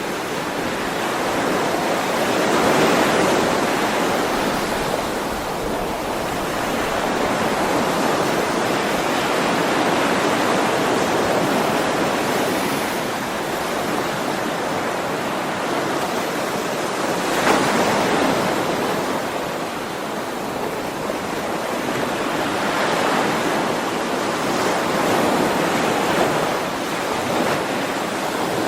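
Ocean surf washing on a shore: a steady rush of breaking waves that swells and eases every several seconds, with stronger surges a few seconds in, about two-thirds through and near the end.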